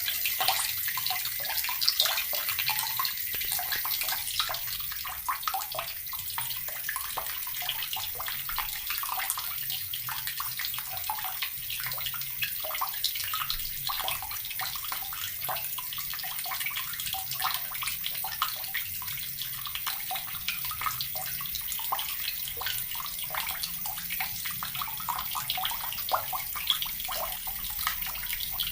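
Tap water running steadily and splashing into a basin or onto stone, with a constant hiss and many small splashes.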